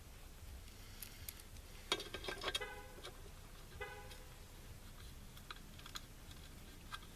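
Small rifle parts being handled on a workbench: scattered light clicks and taps, with a cluster of louder clicks about two seconds in. Two brief squeaky pitched tones come with it, about two and four seconds in.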